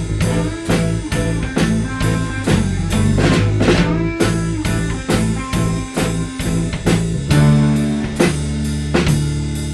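Live band playing an instrumental passage of a rock song: drum kit keeping a steady beat under bass, guitar and keyboards, with no singing.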